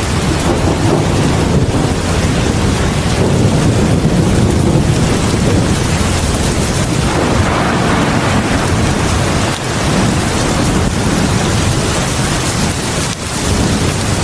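Heavy rain pouring steadily in front of a house porch: a loud, even wash of rain noise with a deep low rumble underneath.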